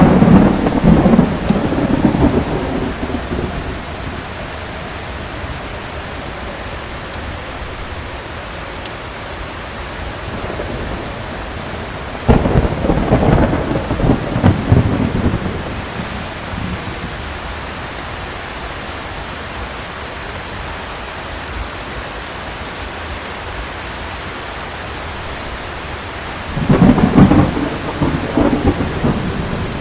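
Thunderstorm with steady heavy rain and three rolls of thunder, each rumbling for a few seconds: one right at the start, one about twelve seconds in, and one near the end.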